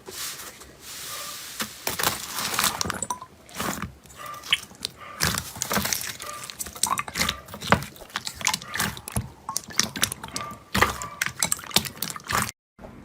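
Slime being squeezed and poked by hand, giving a busy, irregular run of wet, sticky clicks, crackles and pops.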